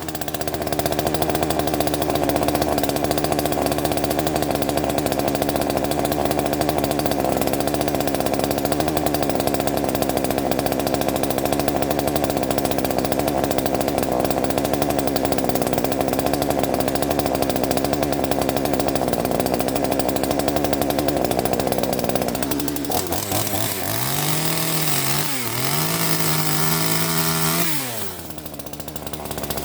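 Small Chinese two-stroke top-handle chainsaw held at high revs for about twenty seconds. The throttle is then let off and blipped up and down a few times, and the engine drops low near the end.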